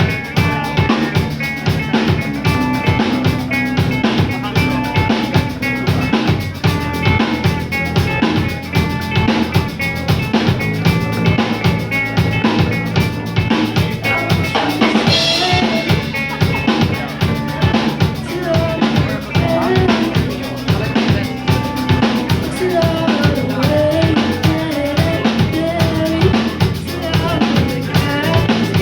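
Live band playing with a full drum kit driving a steady beat under guitar, with a cymbal crash about halfway through.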